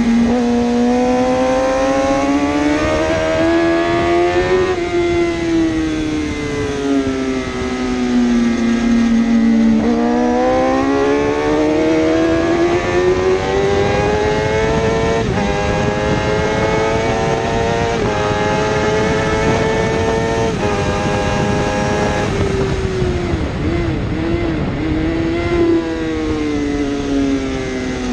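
A 1000cc superbike engine at racing speed, its note climbing as it accelerates and dropping back sharply at each gearshift. Several times it falls away, as when slowing for a corner, and then climbs again.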